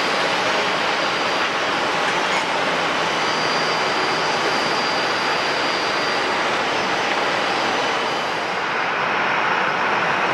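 Jet airliner engines running: a steady rushing noise with thin, steady whining tones on top, easing slightly near the end and picking up again.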